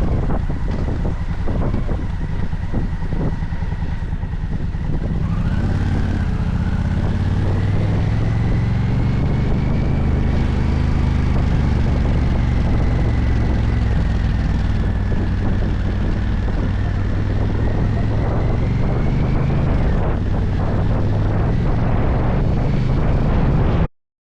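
Motorcycle engine running under way, with wind noise on the microphone. The engine note rises about five seconds in and then holds steady. The sound cuts off suddenly near the end.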